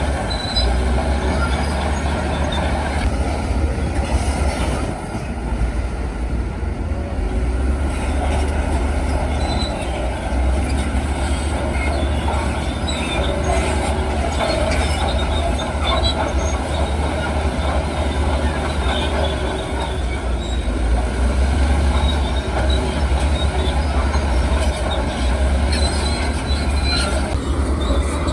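Heavy earthmoving machinery working: diesel engines running with a steady low drone, with scattered short high metallic squeaks and clanks.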